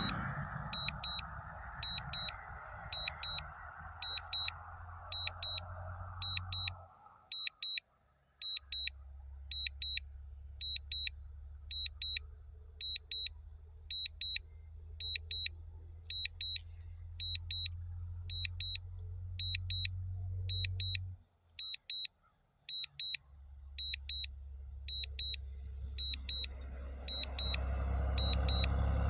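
DJI drone remote controller's warning beeps: short high double beeps repeating about one and a half times a second, the low-battery alarm of a DJI Mini 4K on its way home. A low rumble runs underneath and drops out twice.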